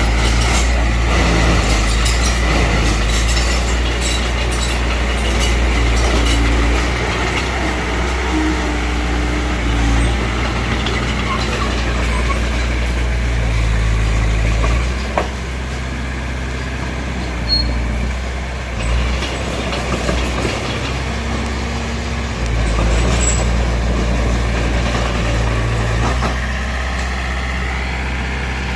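Heavy diesel earthmoving machinery running steadily, with clicks and knocks over the engine in the first several seconds and the engine easing off for several seconds past the middle before picking up again.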